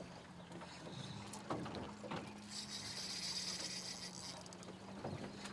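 Riverboat outboard motor running with a steady low hum. A high mechanical whirring comes in for about two seconds in the middle, with a few light knocks.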